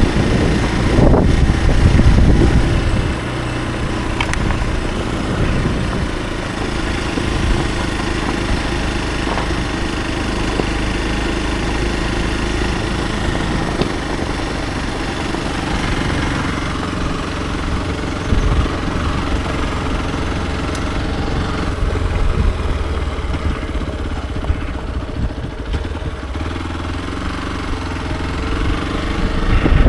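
Hero XPulse 200 4V's single-cylinder four-stroke engine running on the move. It is louder for the first few seconds, then holds a fairly steady note, and swells again near the end.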